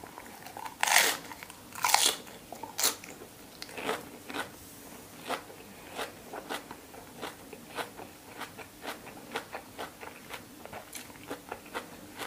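Close-up crunching as a person bites and chews a crisp lettuce-leaf wrap of raw pork liver salad: three loud crunches in the first three seconds, then steady softer crunching chews about two a second.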